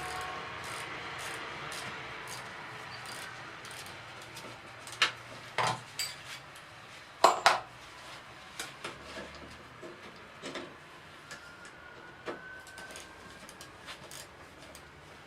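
Sharp metallic clinks and taps of hand tools and parts being handled on a car engine. A cluster of loud ones comes around five to seven and a half seconds in, with lighter clicks scattered after, over a steady background rumble that fades in the first few seconds.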